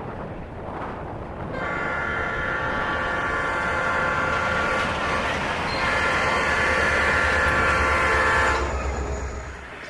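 Diesel locomotive's multi-note horn sounding two long blasts, the second starting about half a second after the first, over the rumble of light-engine diesel locomotives approaching. The horn cuts off near the end and the engine noise fades.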